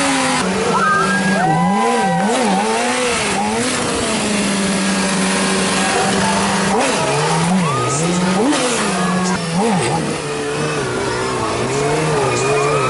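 Yamaha stunt sportbike engine held at high revs, its pitch swinging up and down in repeated throttle blips between steady stretches, over a constant rushing haze of tyre and wind noise.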